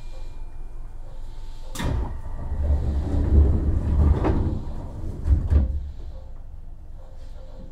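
Running sound of a Keihan 7200 series electric train: a low rumble of wheels on rail that swells louder in the middle. Several sharp knocks come from the wheels passing over the track, the first about two seconds in.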